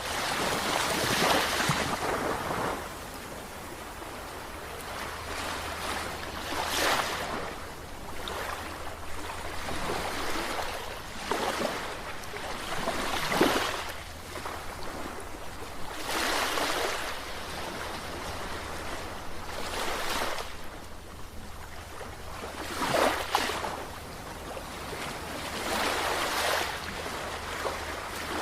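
Sea waves breaking and washing up, a steady rush of surf that swells and falls back every few seconds.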